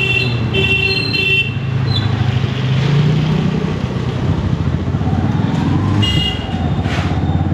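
Motorcycle engine running under way, with its pitch rising about three seconds in. A horn toots several times in quick succession over the first second and a half, and once more about six seconds in.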